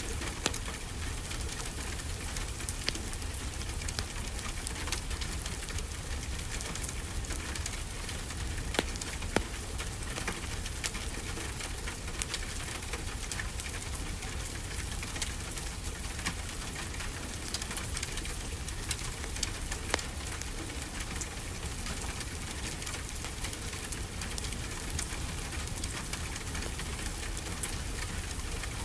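Steady rainfall as an even hiss, mixed with a crackling wood fire: scattered sharp crackles and a few louder pops.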